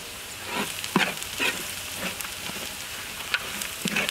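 Spice masala sizzling as it fries in hot oil in a large metal pot, with a metal ladle scraping and knocking against the pot several times as the mixture is stirred.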